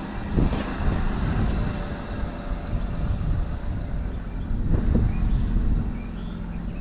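Car driving: steady engine and road rumble with wind on the microphone, swelling louder twice, about half a second in and again near five seconds.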